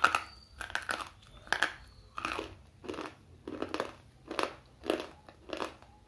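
A stick of slate pencil is bitten off with a sharp crunch, then chewed in a steady run of gritty crunches, about two a second.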